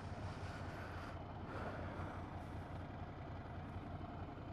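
Ducati 797's air-cooled V-twin engine running steadily while riding, under wind and road noise.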